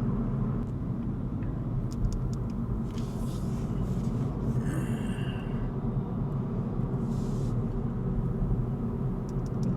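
Steady low rumble of a car driving, heard from inside the cabin: engine and road noise, with a few faint brief higher sounds over it.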